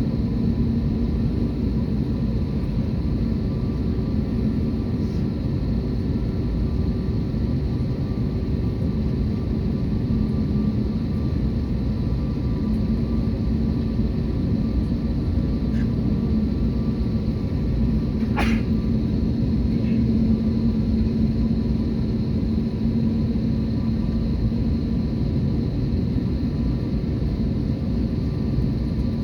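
Steady rumble of an Airbus A321neo's jet engines with a constant low hum and no rise or fall in level. One short click about two-thirds of the way through.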